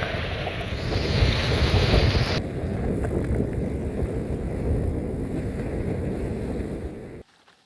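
Wind buffeting the microphone of a cyclist riding along, a dense low rumble with a hiss of rushing air; the higher hiss drops away about two and a half seconds in, and the sound cuts off abruptly near the end.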